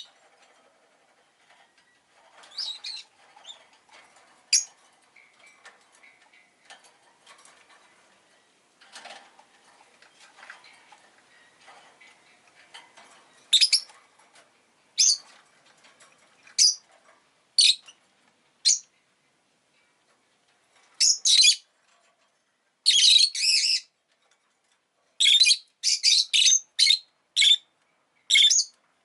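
Rosy-faced lovebird giving short, sharp, high chirps: a few scattered calls over faint background noise at first, then more frequent calls in quick runs through the second half.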